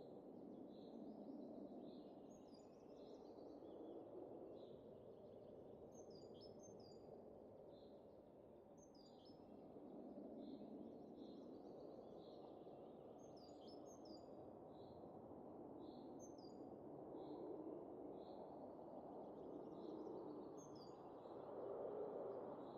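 Faint wind rushing in soft gusts that swell and ease. Small birds chirp over it: a steady run of short high notes about once a second, with occasional quick downward-sliding calls.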